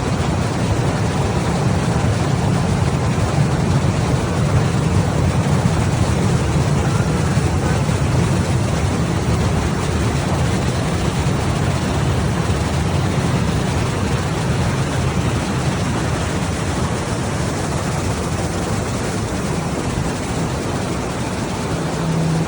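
Postojna Cave tourist train running along its track, heard from on board: a steady, loud rumble with noise spread across the range, a little stronger in the first half.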